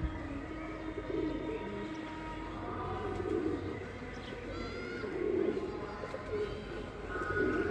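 Rampuri pigeons cooing: repeated low, warbling coos every second or two.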